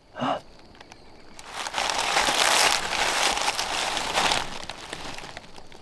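A short pitched note, then about three seconds of loud crinkling rustle close to the microphone.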